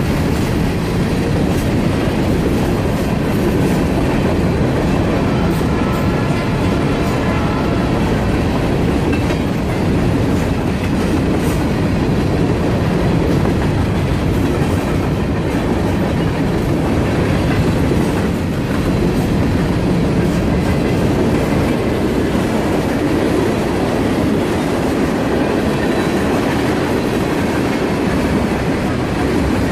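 Train cars rolling past over a railroad grade crossing: a steady, loud rumble of wheels on rail with clickety-clack from the rail joints and crossing.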